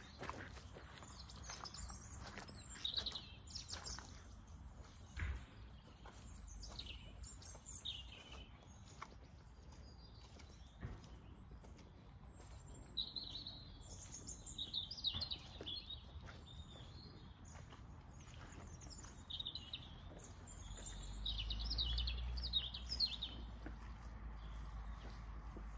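Many small birds chirping and calling, short twittering phrases one after another, with a few soft knocks and a low rumble rising near the end.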